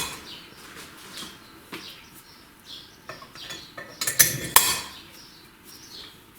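Steel engine valves clinking as they are handled and set down on a metal surface: scattered light clicks, with a cluster of louder clinks about four seconds in.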